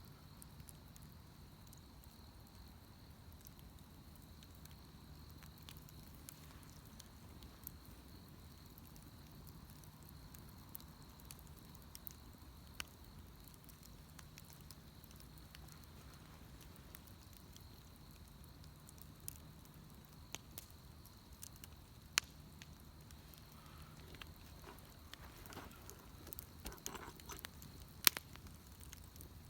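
Wood bonfire burning, faint crackling with scattered sharp pops that grow busier near the end, two louder pops standing out late in the stretch. A steady low hum lies underneath.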